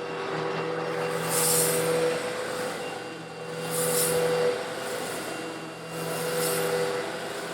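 Eureka vacuum cleaner running steadily while sucking up coarse stone granules, slightly larger than sand. Three times, about every two and a half seconds, the grit rattles and hisses up through the nozzle and the sound swells.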